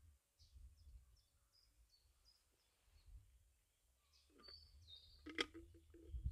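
Faint birdsong: short high chirps repeating over a low rumble, with a sharp click and a few soft knocks near the end.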